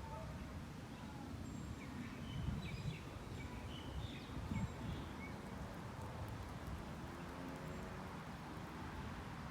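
Faint outdoor ambience: a steady low rumble, with a few short bird chirps between about two and five seconds in.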